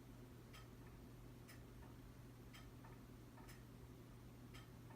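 Near silence with the faint, even ticking of a clock, about two ticks a second alternating strong and weak, over a low steady hum.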